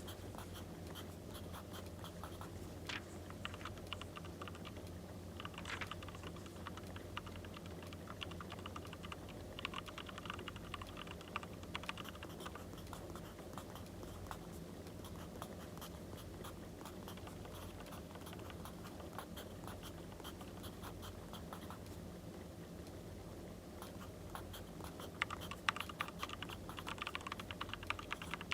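Pen or pencil writing on paper in short scratchy bursts, over the steady bed and scattered crackle of a wood fire.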